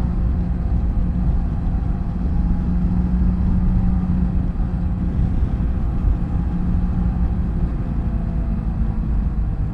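BMW F800GS parallel-twin motorcycle engine running steadily while riding, with a constant rush of wind and road noise.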